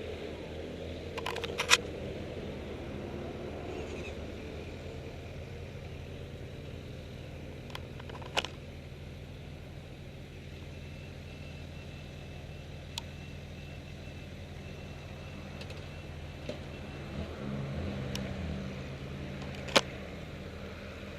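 Sport motorcycle engine running steadily, with a few sharp clicks or knocks, the loudest about two seconds in and near the end.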